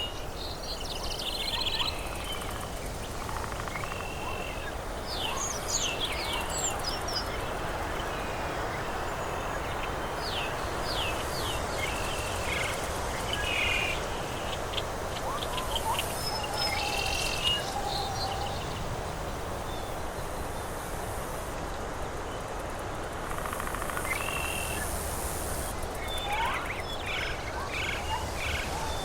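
Tropical forest ambience: many birds calling with short chirps and trills, scattered throughout, over a steady background hiss.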